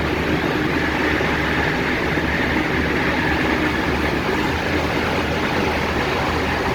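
MTR Tung Chung line K-Train, a Hyundai Rotem electric multiple unit, running at speed and heard from inside the carriage: a steady rumble of wheels on rail with a hiss centred high in the range.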